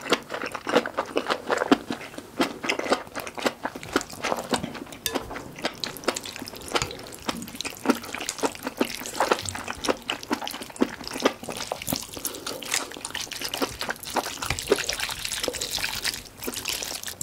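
Close-miked wet chewing of malatang, a spicy Chinese noodle soup: a steady run of small, irregular wet clicks and smacks of mouth and food.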